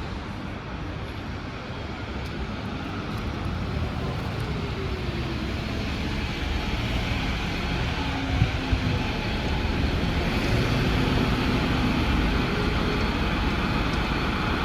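City transit vehicle noise that grows steadily louder as the vehicle draws near, with two short knocks about eight and a half seconds in.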